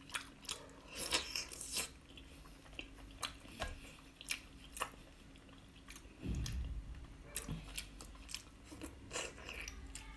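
Close-miked chewing and biting of a whole cooked octopus, with scattered short wet mouth clicks and smacks. A low dull rumble starts about six seconds in.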